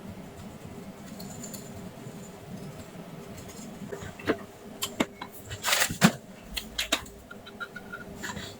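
Small tools being handled on a repair bench: a run of sharp metallic clicks and clatter in the middle, over a faint steady hum.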